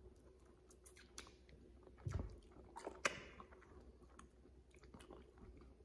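Faint, wet chewing and mouth sounds of people eating juicy Kesar mango flesh. Soft scattered clicks run throughout, with a slightly louder smack about two seconds in and again about three seconds in.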